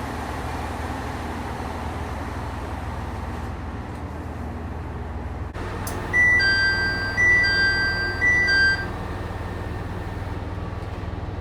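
JR local train door chime: a clear two-note high-low chime sounding three times, signalling that the doors are closing. A steady low hum from the stopped train runs beneath it.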